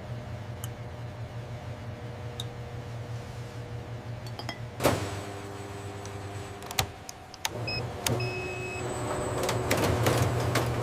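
Factory machinery running with a steady low hum, broken by a sharp clank about halfway through and a few more clicks, then a rattling clatter that builds near the end.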